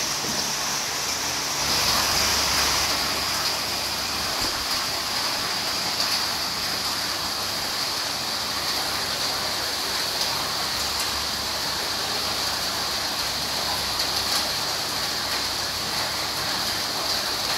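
Heavy rain falling: a steady, even hiss that keeps up without a break.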